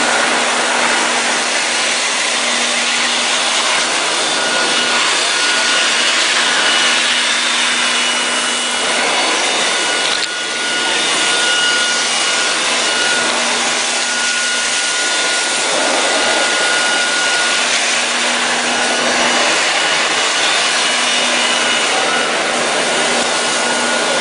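Kärcher BD 530 floor scrubber-drier running: a steady whine from its suction motor over the scrubbing noise. The level dips briefly about ten seconds in.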